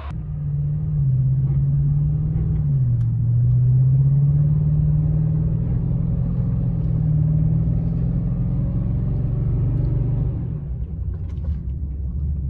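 Truck driving, its engine making a low, steady drone with road rumble. The pitch steps down about one and three seconds in, then holds, and the drone eases off near the end.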